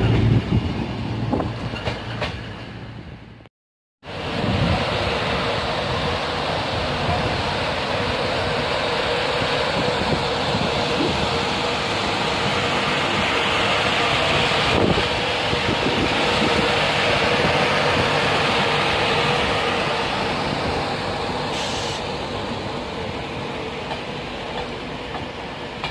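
A CrossCountry Voyager diesel unit's engines running low and heavy, cut off abruptly about three and a half seconds in. Then a Class 91 electric locomotive and its Mk4 coaches roll past close by: a steady rushing rail and running noise with a faint steady hum, slowly easing off near the end.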